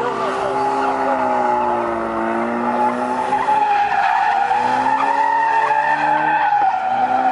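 A car's tires squealing steadily as it spins them under power, with the engine revving underneath; the engine note sags about two seconds in and climbs again near the end.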